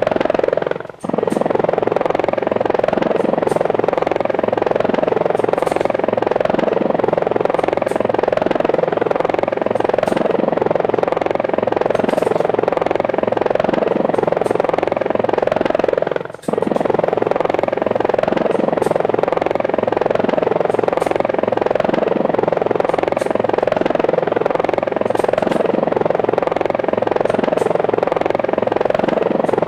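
Helicopter rotor and engine sound running steadily with an even chopping pulse. It drops out briefly twice, about a second in and again about sixteen seconds in.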